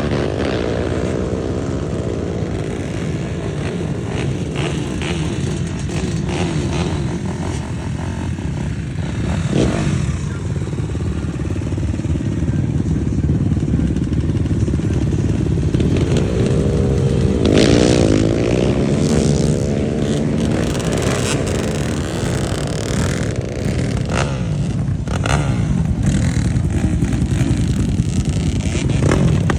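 Dirt bike engine running hard as the bike is ridden, its pitch rising and falling with the throttle, most plainly in a rev-up and drop about two-thirds of the way through. A few sharp clattering knocks come through over the engine.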